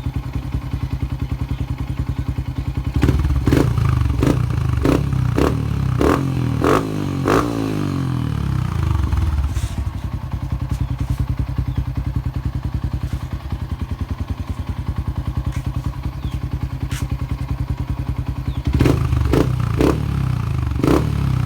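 Yamaha Exciter 150 single-cylinder four-stroke engine running through an aftermarket King Drag exhaust. It idles with a pulsing beat and is revved in a string of quick throttle blips about three seconds in, then settles back to idle. It is blipped again near the end.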